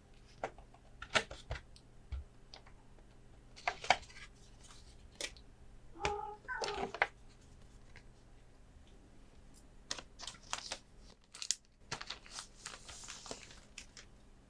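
Hands handling cards and plastic packaging: scattered light taps and clicks, with crinkling near the end. About six seconds in there is a short pitched cry.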